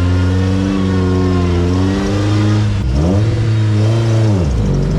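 Off-road rig's engine running steadily, then revved up and back down about three seconds in.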